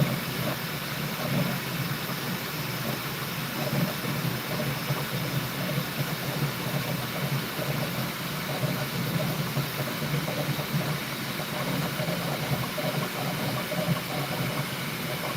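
Bambu Lab P1S 3D printer running a print: a steady whir of fans and motors with a low, fluttering hum.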